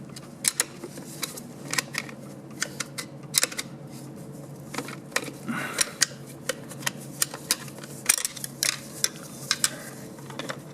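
Irregular metal clicks and clinks of screwdriver tips prying and scraping at a snap ring deep inside a 700R4 automatic transmission's steel internals.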